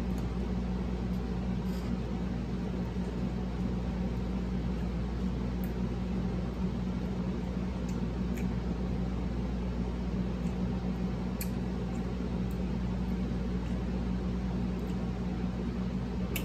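A steady low machine hum with a constant tone runs throughout. Over it come a few faint, short crunchy clicks of chewing on fried fish.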